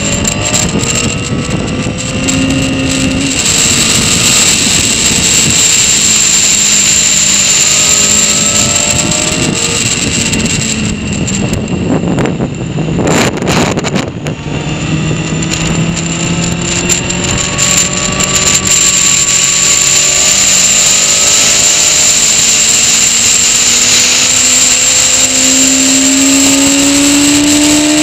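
Honda CBR sport motorcycle's engine heard onboard at track speed, its pitch rising again and again as it pulls through the gears, easing off around twelve seconds in for a corner before accelerating hard again, under a steady rush of wind.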